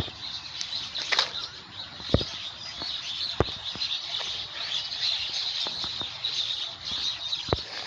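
Birds chirping steadily in the background, with three sharp clicks spread through it.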